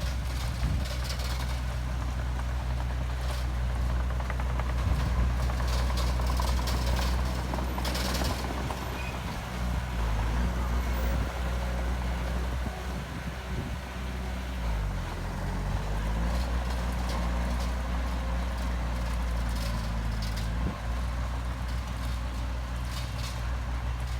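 Heavy diesel construction machine engine running, with its note dipping and climbing back about halfway through, and scattered metallic clanks and knocks.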